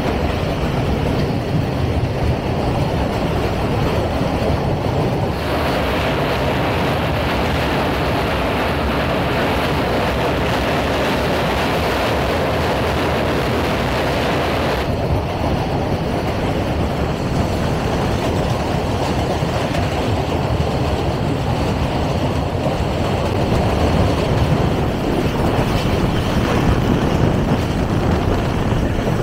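Passenger train running at speed, heard at an open carriage window: a steady rumble of wheels on the rails as it crosses a steel truss bridge and runs on onto open track, with a brighter rushing hiss from about five to fifteen seconds in.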